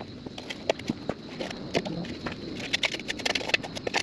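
Irregular series of sharp clicks and knocks, several a second.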